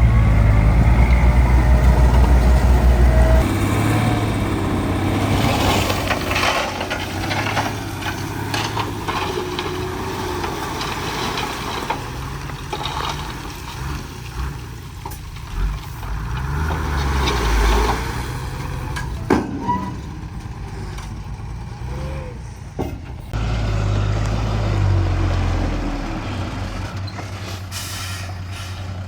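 Heavy diesel machinery running, with a low engine hum that is loudest for the first few seconds and swells again near the end, and scattered metallic clanks and knocks in between.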